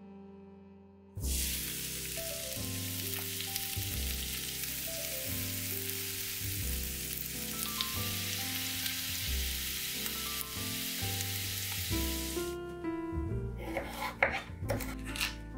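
Chopped onion sizzling in hot olive oil in a frying pan. The sizzle starts suddenly about a second in and stops near the end, followed by a few sharp knife chops through a carrot on a wooden cutting board. Background music plays throughout.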